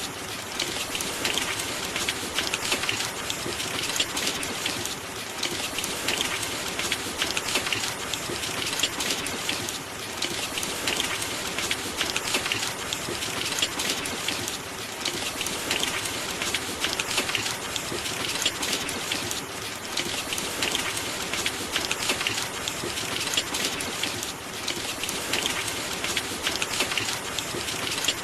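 Steady rain: a dense hiss of countless small drop hits that swells and eases gently every few seconds.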